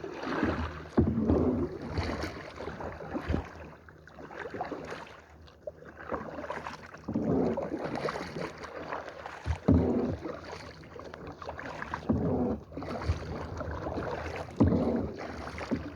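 Kayak paddles dipping and pulling through the water in uneven strokes, with water sloshing in between.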